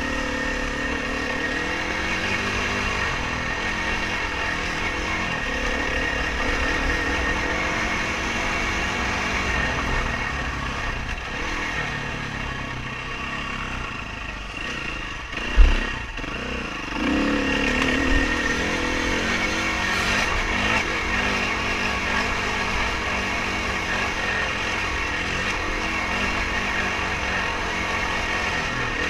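Off-road dirt bike engine running under riding load, the pitch rising and falling with the throttle. About halfway through comes a single loud low thump, followed by the engine revving up again.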